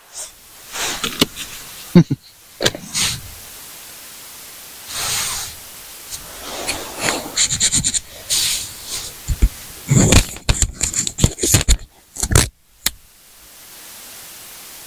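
A person chewing a big mouthful of burger close to the microphone: irregular wet mouth and chewing noises mixed with crackling and clicking handling sounds, busiest in the last few seconds.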